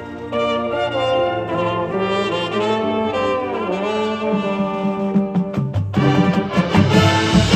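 High school marching band playing, the brass section holding loud sustained chords with a downward slide about halfway through. From about six seconds in, the drums come in with hits and cymbal crashes under the horns.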